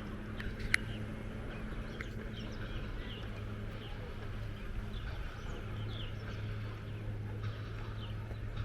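A steady low engine hum with many short, high bird chirps scattered over it, and one sharp click about three quarters of a second in.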